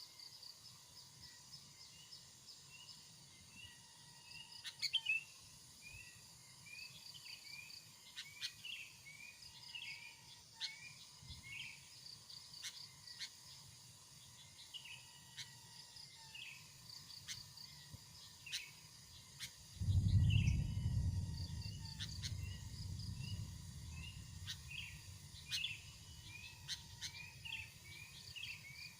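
Small birds chirping over and over in short rising-and-falling notes, with sharp ticks and a faint high pulsing trill behind them. About two-thirds of the way through, a low rumble comes in and fades over several seconds.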